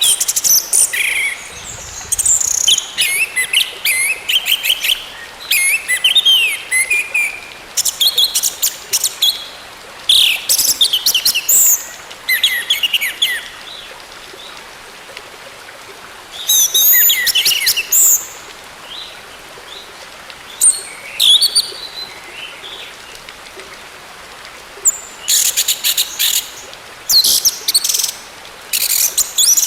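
Orange-headed thrush singing in quick phrases of varied, sweeping whistled notes mixed with high rattles. The phrases come in bursts of one to three seconds with short pauses between them, over a steady background hiss.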